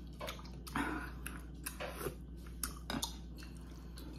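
Close-miked chewing of a mouthful of rice cake soup with dumpling: soft, irregular wet mouth clicks and smacks.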